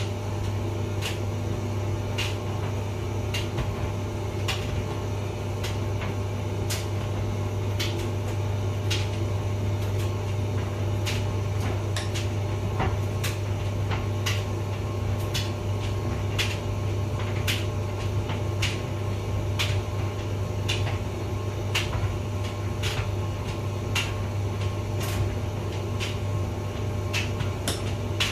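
Hotpoint vented tumble dryer running: a steady low motor hum with sharp clicks repeating about once a second as the drum turns.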